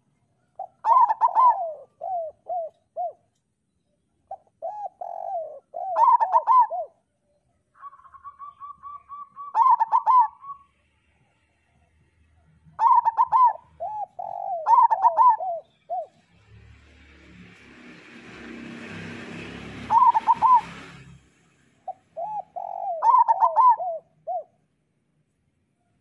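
Zebra doves (perkutut) cooing: repeated phrases of one or two loud ringing notes followed by a quick run of lower coos, every few seconds. Past the middle a hiss of noise swells and fades over about four seconds.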